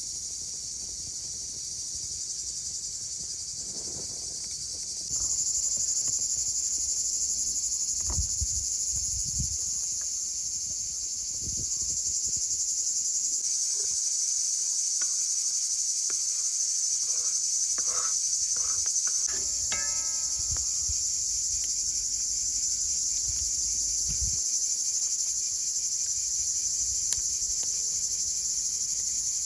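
Steady high-pitched insect chorus, shifting abruptly in level a few times, with a few soft low knocks now and then.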